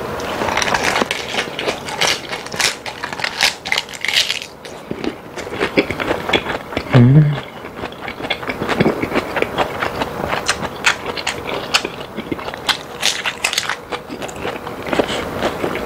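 Close-miked chewing of a big mouthful of raw napa cabbage leaf wrapped around boneless chicken feet: a continuous run of crisp crunches and small clicks. About seven seconds in, a brief low hummed 'mm' from the eater.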